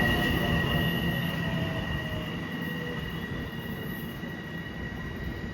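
Long Island Rail Road train moving away, its rumble fading steadily, with a steady high-pitched squeal held over it.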